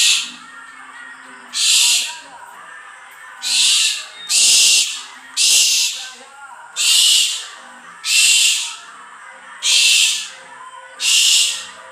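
An owl giving a series of loud, hoarse hissing calls, about ten in all, each under a second long and repeating every second or so.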